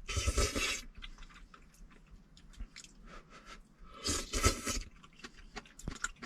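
A person chewing and crunching food close to the microphone, with two louder crunchy bunches of bites, one at the start and one about four seconds in, and small clicks between them.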